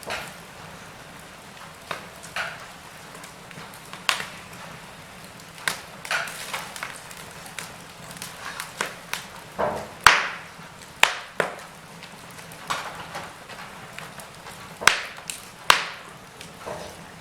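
Wood fire burning in a fireplace: irregular sharp crackles and pops over a soft steady hiss, the loudest pop about ten seconds in.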